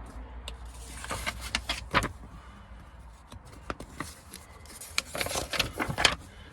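Scattered clicks, taps and short rustling scrapes from handling, busiest about a second in and again near the end.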